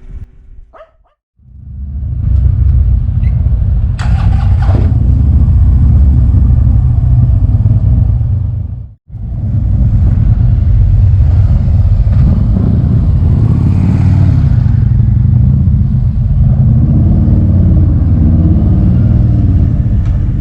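Harley-Davidson motorcycle engine running, a loud low rumble that drops out briefly about nine seconds in.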